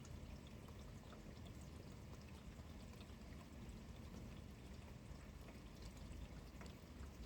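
Steady rain falling, a faint even patter and hiss with scattered drips.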